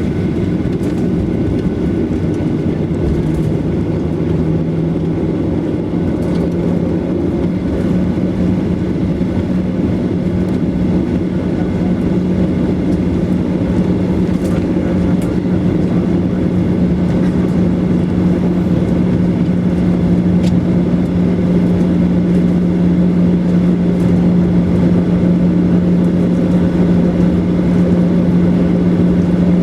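Boeing 737-900ER's CFM56-7B jet engines heard from inside the passenger cabin: a steady rumble with a low hum that comes in about three seconds in and rises slightly in pitch as the sound slowly grows louder. A few faint cabin rattles.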